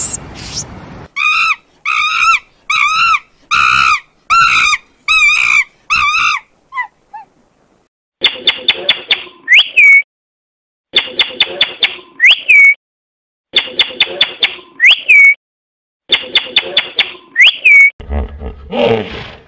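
A run of animal calls. First a Barbary macaque's short wavering calls, about seven in a row. Then four runs of a blue-and-yellow macaw's rapid chattering clicks, each ending in a rising-then-falling squawk, and near the end the first low grunts of a hippopotamus.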